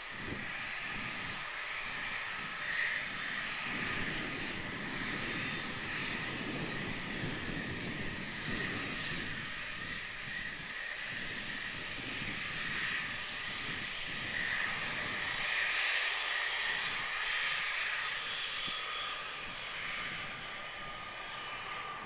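Avro RJ85 jet airliner's four Honeywell LF507 turbofans running, a steady whine with a rumble beneath that swells and fades.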